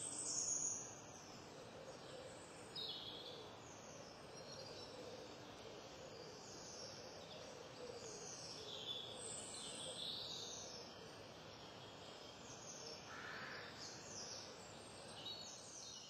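Wild songbirds singing and calling in short, high-pitched phrases, several overlapping, over a faint steady hiss of ambient noise.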